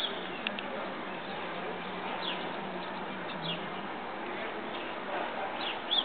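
Small birds giving a few short, high, downward-sliding chirps, scattered over a steady background of outdoor noise.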